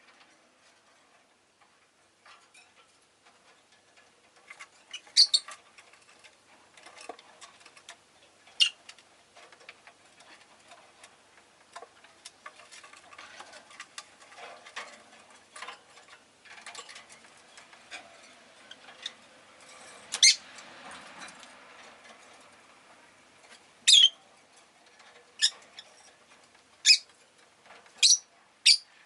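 Rosy-faced lovebirds giving short, sharp, high-pitched chirps every few seconds, coming more often near the end, over faint clicking and rustling.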